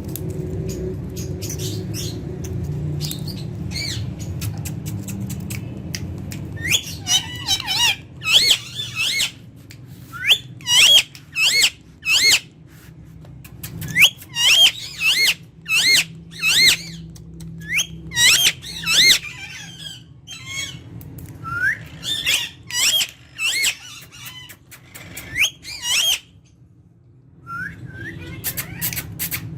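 Indian ringneck parakeet giving a long series of short, shrill squawks, about one a second with brief pauses. A low steady hum runs underneath in the first few seconds.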